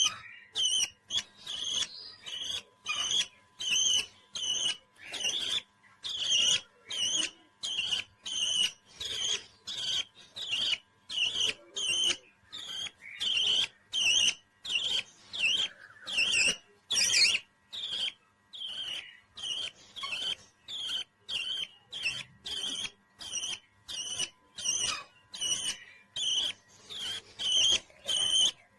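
A pet parrot calling in a steady run of short, high chirps, about two a second.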